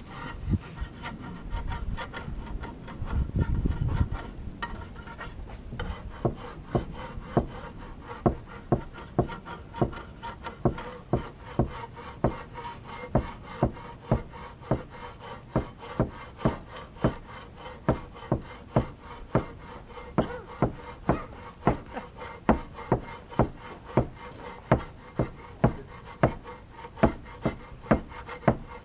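Repeated scraping or rasping strokes at an even pace, about three every two seconds. Rumbling handling noise comes first, for the first few seconds.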